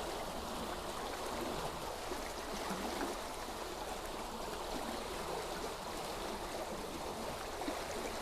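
A stream of running water flowing steadily, with a continuous babble.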